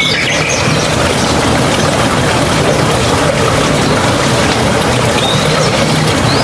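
Steady rushing of a mountain stream, with a few faint bird chirps over it near the start and again near the end.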